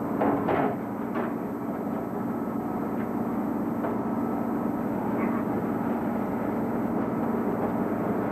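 A steady low mechanical hum, as from a running engine or motor, with a few sharp clicks and knocks in the first second and a couple of faint ticks later.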